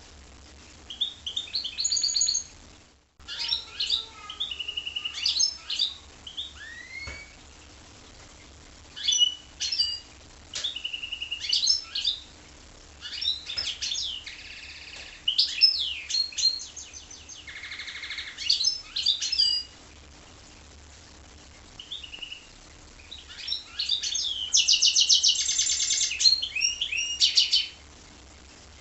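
Goldfinch × canary hybrid singing: phrases of quick chirps, whistled notes and rapid trills with short pauses between them, ending in a long fast trill.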